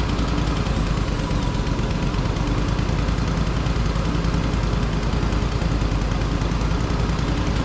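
Large engine running steadily at an even speed, a constant low drone with a fast regular pulse.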